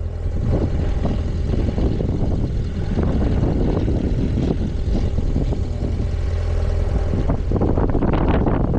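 Wind buffeting the microphone of a riding motorcycle: a steady low rumble with gusty rushing noise over the engine's drone, swelling stronger near the end.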